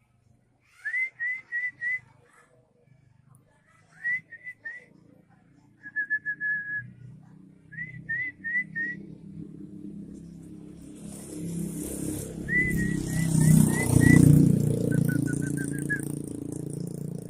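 Short, clear whistled notes in quick groups of three to five, each note rising at its start, repeated with pauses. In the second half a rumbling noise with a hiss swells and peaks before easing off.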